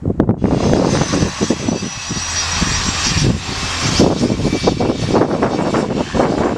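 Aircraft engine running close by, a loud steady rush with a thin high whine on top, coming in about half a second in.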